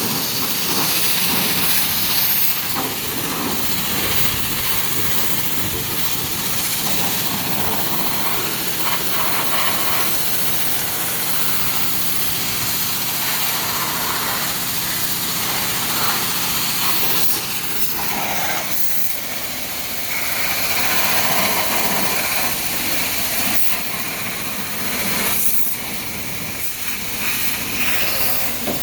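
High-pressure car-wash wand spraying water onto a truck, a steady loud hiss of spray that swells and dips as the jet moves.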